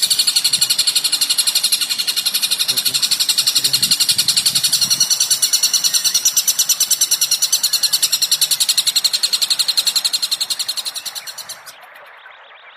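Recorded bird song of the kind played to train shrikes: a fast, even trill of high chirps, about ten a second, that stops sharply near the end.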